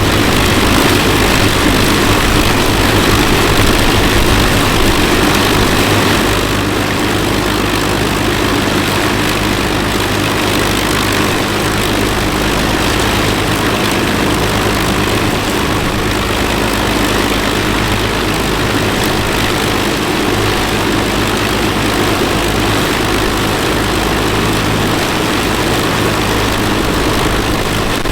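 Avro Lancaster NX611's Rolls-Royce Merlin V12 piston engines running steadily on the ground after start-up, easing slightly in level about six seconds in.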